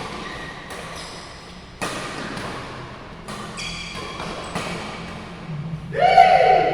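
Badminton play on an indoor court: sharp racket strikes on the shuttlecock at irregular intervals of about a second. A loud squeak of court shoes on the floor comes near the end.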